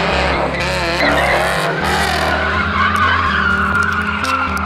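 Car tires squealing as the car spins its wheels on pavement: a loud, wavering squeal over the engine held at high revs.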